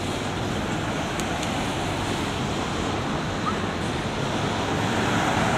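Freight cars of a long, slow-moving CSX freight train rolling past, a steady noise of wheels on rail that grows a little louder near the end.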